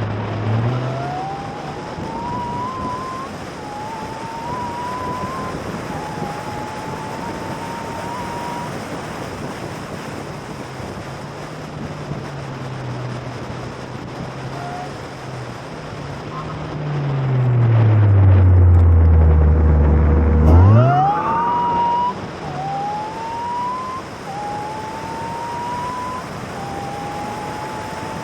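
Car engine pulling hard through the gears under fast driving, its pitch climbing and then dropping back at each upshift over a steady rush of wind noise. About two-thirds of the way through it drops to a loud low drone as the car slows, then sweeps sharply up again under hard acceleration.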